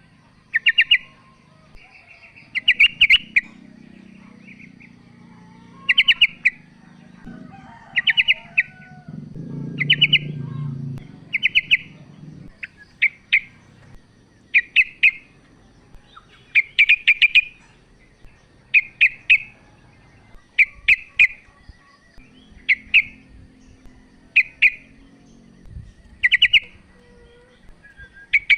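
Female yellow-vented bulbul calling: short bursts of a few quick, sharp notes, repeated about every one to two seconds.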